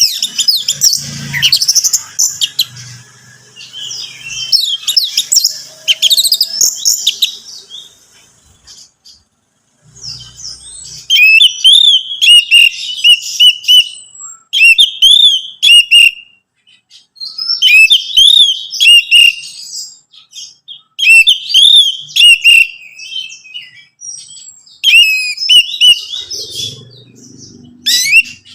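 Orange-headed thrush (anis merah) singing a rapid series of short, varied, whistled phrases in bursts, with short pauses between them and a longer pause about a third of the way in.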